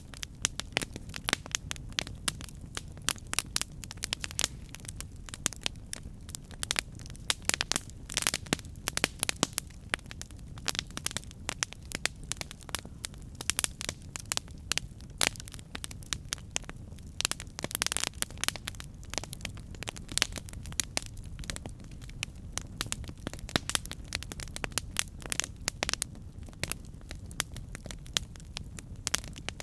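Wood fire burning, with dense, irregular crackles and pops over a steady low rumble of flame.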